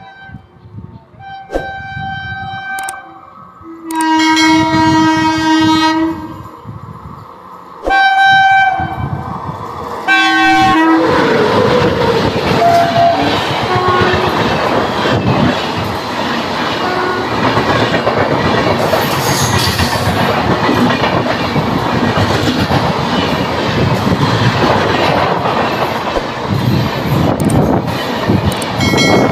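An Indian Railways express train's horn sounds about five blasts over the first ten seconds, the loudest a two-second blast about four seconds in. The train then rushes past at speed, its coaches rattling steadily over the rails.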